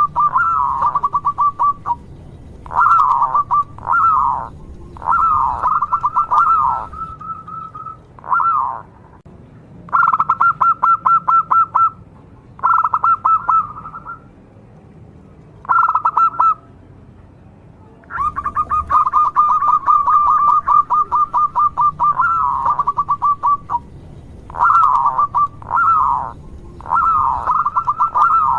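Zebra dove (perkutut) cooing in repeated phrases. Each is a run of fast staccato notes or a few rolling, bending coos, with pauses of a second or two between phrases.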